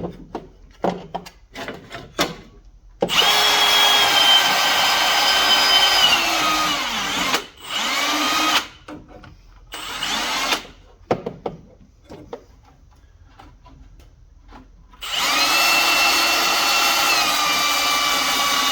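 Handheld power tool's motor whining in several bursts as it roughs up a rusty metal ground-connection surface, its pitch sagging under load toward the end of each long run. A few light knocks and clicks of handling come between the runs.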